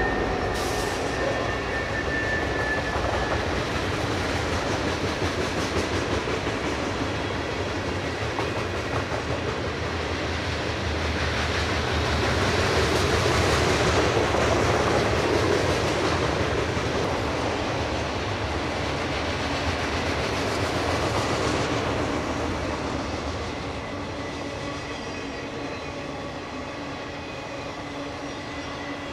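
Union Pacific freight train rolling past: a steady rumble and clatter of freight cars on the rails. It swells to its loudest about halfway through, then eases off toward the end.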